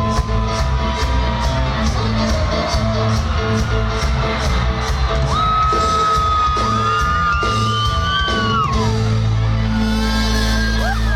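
Loud live cumbia music with a steady beat and heavy bass, long held melody notes over it, and a crowd whooping and shouting along.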